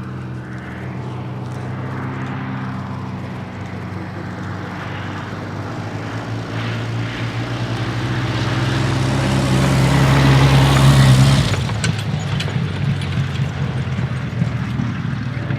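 Hawker Sea Hurricane's Rolls-Royce Merlin V12 engine and propeller in a flypast: a steady engine drone that builds louder over about ten seconds, then drops off sharply as the aircraft passes, about eleven seconds in.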